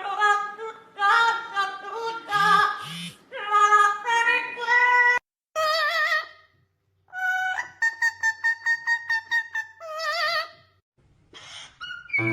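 A parrot singing in a mimicked human singing voice: sung phrases for about five seconds, then shorter wavering notes and a fast run of repeated notes, broken by brief silences.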